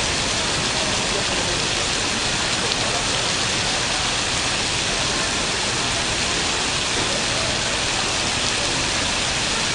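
Steady sound of water falling from a digital waterfall, a water curtain whose drops are released by electronically controlled valves.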